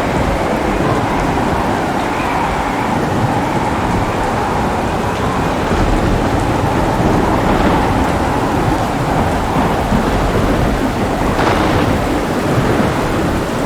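Heavy, steady rain with a deep rumble of thunder underneath, and a brief sharper crackle of thunder about eleven seconds in.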